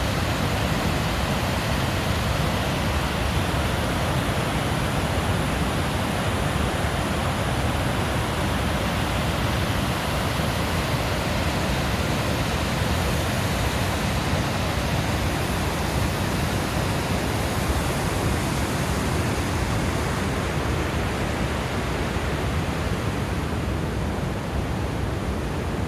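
Steady rush of a large mass of falling water at a hydroelectric dam, an even roar with no breaks.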